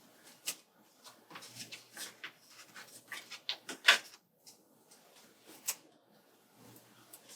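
Paper planner stickers and sheets being handled on a desk: rustling and a series of small taps and clicks, the sharpest about four seconds in.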